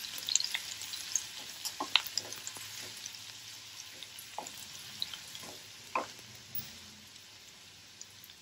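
Garlic paste and curry leaves frying in hot oil in a non-stick kadhai, sizzling and crackling while a wooden spatula stirs them, with a few sharper pops. The sizzle slowly dies down.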